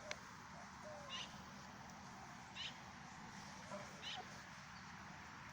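Faint, short, high bird chirps, four or five of them about a second apart, over a steady outdoor hiss, with a single sharp click just after the start.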